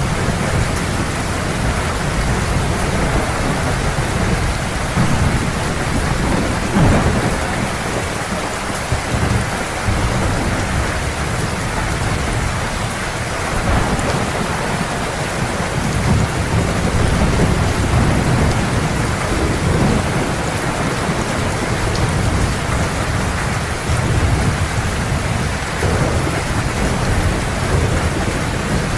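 Heavy rain falling steadily, with low thunder rumbling underneath that swells and fades several times.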